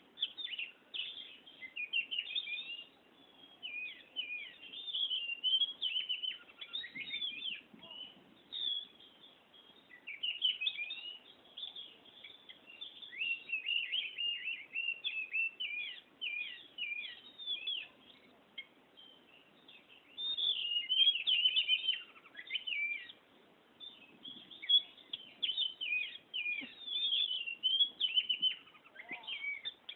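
Oriental magpie-robin (kacer) singing in full, continuous song: runs of quick, varied whistled and warbled phrases, coming in bursts with short pauses between them.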